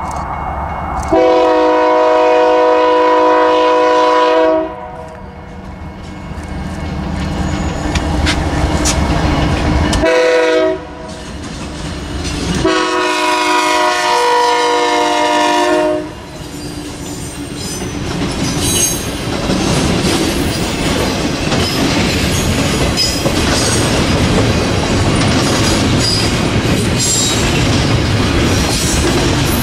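Locomotive air horn sounding a chord of several notes: a long blast, a short one, then another long one. The train then passes with continuous rumbling wheel clatter over the rails and scattered high wheel squeals.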